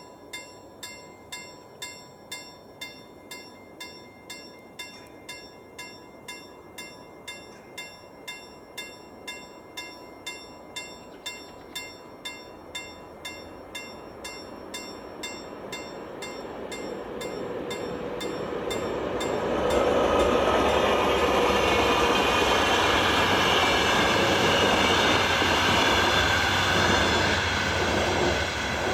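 Level-crossing warning bell ringing in steady strokes, about two a second. About two-thirds of the way in, a regional train hauled by an Sr1 electric locomotive comes through the crossing, and its passing rumble and wheel noise swell loud and drown out the bell.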